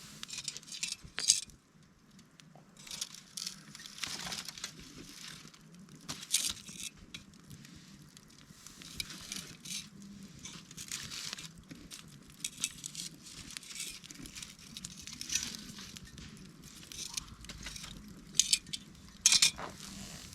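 Wood campfire crackling, with irregular sharp pops and snaps over a soft hiss. The loudest pops come about a second in, about six seconds in, and in a quick cluster near the end.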